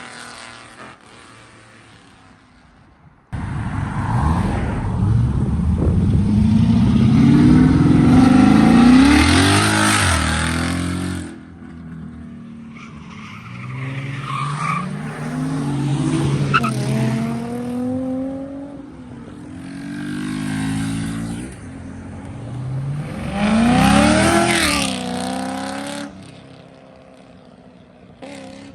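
A car engine revving hard over and over, its pitch climbing and falling in several swells. It starts abruptly about three seconds in and dies down near the end.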